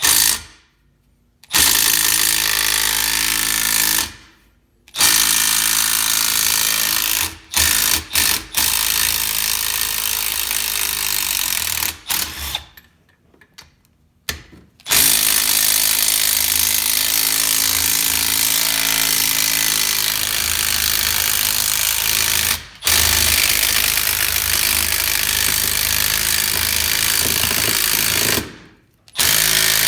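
Impact wrench hammering in runs of a few seconds, the longest about seven, stopping and starting between them, as it undoes the 12 mm bolts holding the exhaust on a jet ski engine.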